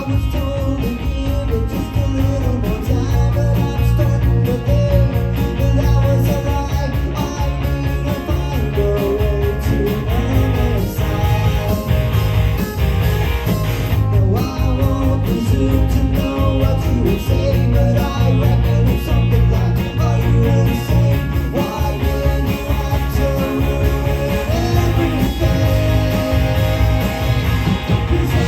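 Rock band playing live, with electric guitars over bass and drums.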